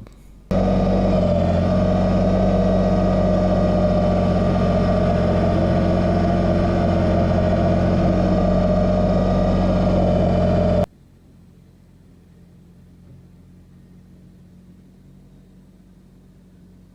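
Kubota BX2380 subcompact tractor's three-cylinder diesel engine running at a steady speed. It cuts in abruptly about half a second in and cuts off suddenly about eleven seconds in, leaving only a faint low hum.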